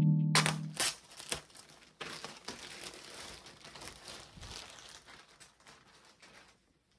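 Crinkling and rustling of something being handled, with several sharp clicks, fading out after about six and a half seconds. Piano music fades out within the first second.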